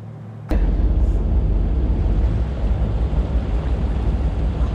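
A boat's engine running steadily under heavy wind rumble on the microphone, starting suddenly about half a second in.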